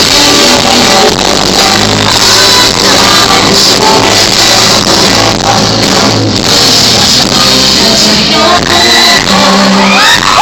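Live pop-rock band and singers performing a song, captured on a phone so loud that the sound is overloaded and distorted. Near the end a high, rising shout from the crowd starts.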